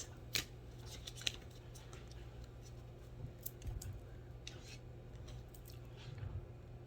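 Paper being handled quietly: a few soft clicks and short rustles over a low steady hum.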